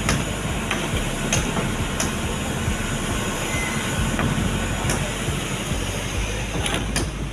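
Heavy asphalt-paving machinery running: a steady diesel engine rumble with repeated sharp clicks and knocks.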